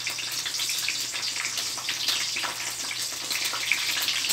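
Eggplant slices frying in hot oil in a wok, a steady sizzle full of small crackling pops.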